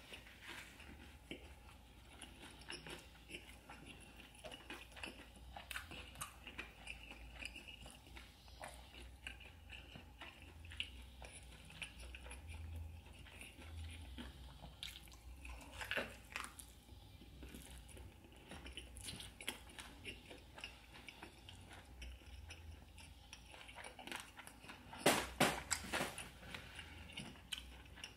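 Close-miked chewing and biting into crispy fried chicken, with scattered crunches and mouth sounds; a louder burst of crunching comes near the end.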